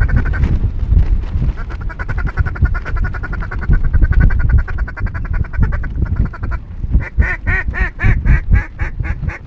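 Mallard-style duck quacking: a fast chattering run of short calls, then, about seven seconds in, a louder series of quacks at about five a second. A low rumble runs underneath.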